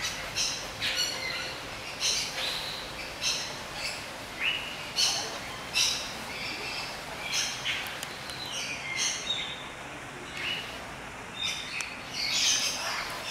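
Birds chirping: a continual run of short, high calls, some sliding down in pitch, over a steady background hiss.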